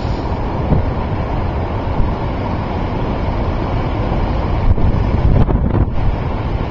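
Gale-force wind buffeting the microphone in a steady heavy rumble, with the storm-driven waves of Lake Superior surging underneath.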